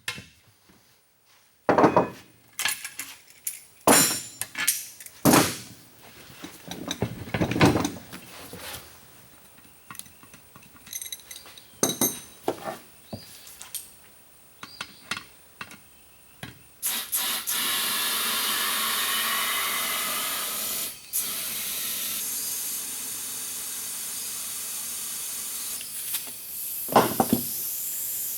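Scattered knocks and clanks as a tire and inner tube are worked onto a wagon wheel. Then, a little over halfway through, a steady hiss of compressed air filling the inner tube, with one short break.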